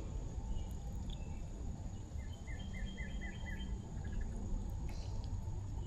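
Creek-side outdoor ambience: a low, steady rushing noise and a steady high-pitched insect drone. About two seconds in, a bird gives a quick run of about six short chirps.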